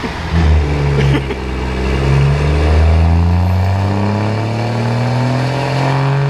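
Turbo diesel pickup engine under full load on a chassis dyno, making a pull with its pitch climbing slowly and steadily as the revs rise.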